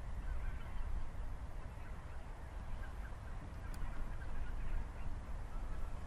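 Faint, scattered bird calls over a steady low rumble.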